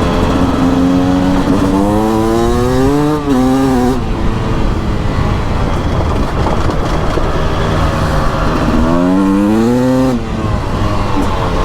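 Beta RR 300 single-cylinder two-stroke enduro engine under load, its pitch climbing as it is revved out, dropping suddenly about three seconds in and again near ten seconds, then climbing once more near the end.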